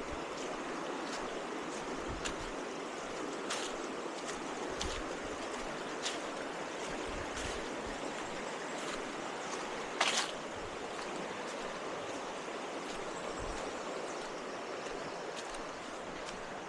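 Steady rushing of water from a forest waterfall and stream. Scattered light clicks cross it, and there is a louder knock about ten seconds in.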